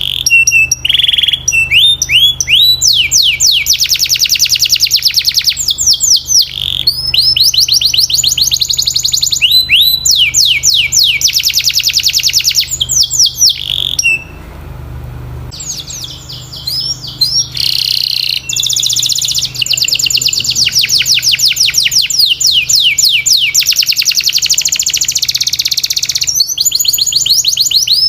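Domestic canary singing: long rolls of rapid, evenly repeated falling notes, phrase after phrase. The song breaks off for about two seconds halfway through.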